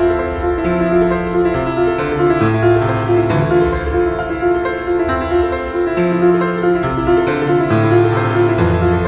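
Piano music: a repeating mid-range note over slowly changing bass notes.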